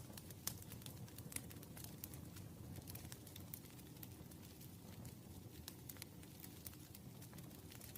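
Campfire crackling: frequent small sharp pops and snaps over a low, steady rumble of burning, with two louder pops in the first second and a half.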